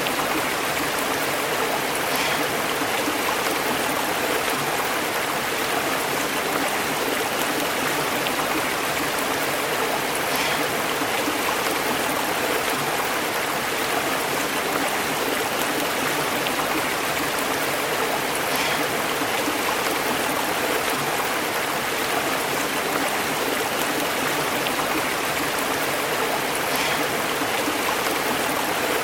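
Stream water burbling and bubbling over rocks, a steady, unbroken rush. A faint brief splash recurs about every eight seconds.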